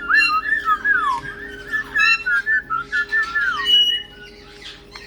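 Caique parrots whistling: a quick, busy run of swooping up-and-down whistled notes mixed with a few short sharp chirps. The whistling thins out about four seconds in.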